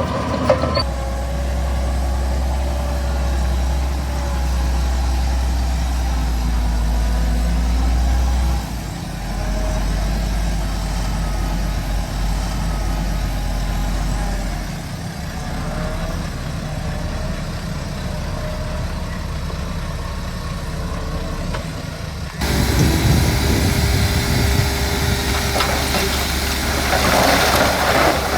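Heavy diesel earthmoving machinery running: a bulldozer and dump trucks at work, with a steady deep engine hum. About three-quarters of the way through, the sound jumps abruptly to a louder, noisier engine sound.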